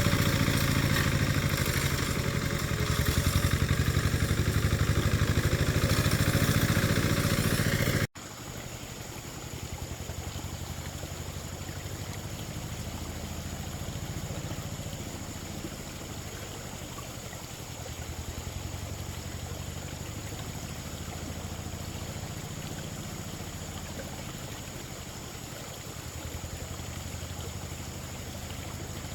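A small engine running steadily, loud for about the first eight seconds, then a sudden cut to a quieter steady engine hum.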